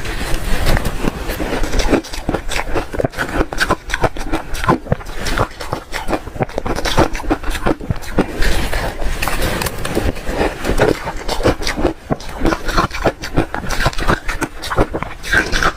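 Hard refrozen ice being chewed close to the microphone: a dense, continuous run of sharp crunches and cracks.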